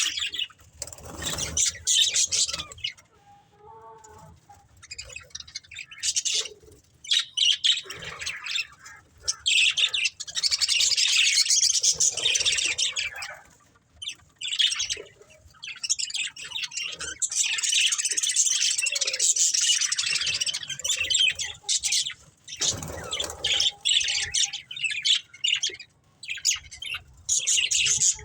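Pet budgerigars chattering and chirping in long, busy bouts with short pauses between them. A low thud comes about a second in and again a few seconds before the end.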